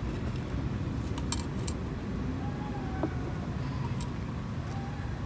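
Steady low background rumble with a few faint, sharp clicks of small decorative rocks being set into a planter, mostly in the first two seconds and once more near the end.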